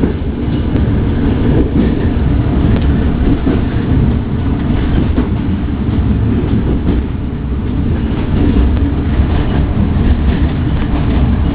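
Rodalies passenger train running at speed, heard from inside the carriage: a loud, steady rumble of wheels on rail with occasional faint clicks.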